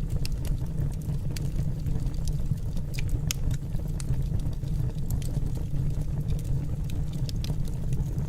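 Wood fire burning in a fireplace: a steady low rumble of the flames with scattered sharp crackles and pops of the burning wood.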